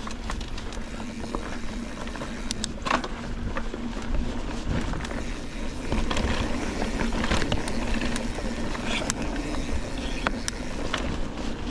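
Mountain bike rolling along a dirt trail: steady tyre and wind noise, with scattered clicks and rattles from the bike.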